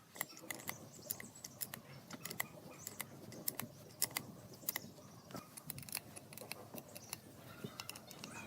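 Irregular light clicks and small metallic taps, several a second, some with a short ring: small tools or metal parts being handled.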